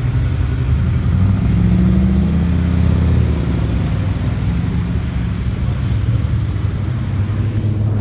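Car engine running at low revs, its note lifting slightly about a second in and settling back after about three seconds.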